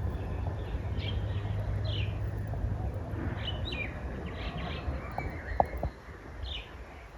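Birds chirping in short, scattered calls over a steady low rumble, which drops away about six seconds in. A sharp click or two comes just before the rumble fades.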